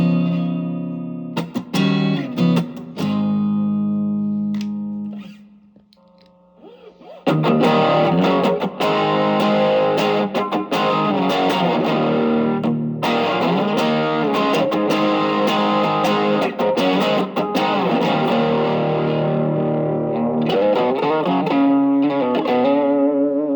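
Electric guitar played through an amp, first clean. About seven seconds in, an Ibanez TS808 Tube Screamer overdrive pedal with a JRC 4558D op-amp chip is switched on at a boost setting, and the guitar goes on playing with a fuller, distorted tone.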